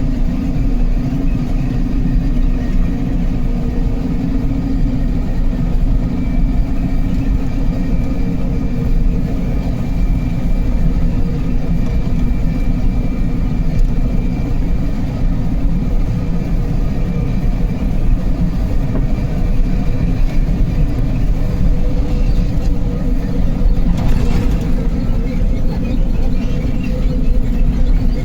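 Truck on the move: steady engine and road noise, heaviest in the low end, with no change throughout.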